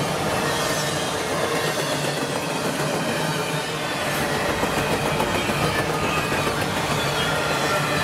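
Freight train cars rolling past at speed: a steady noise of steel wheels running on the rails.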